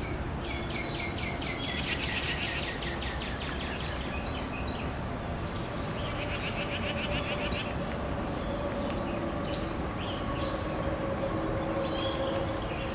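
A songbird singing a fast trill of sharp repeated notes, once starting a fraction of a second in and again about six seconds in, over a steady high insect drone and low background noise.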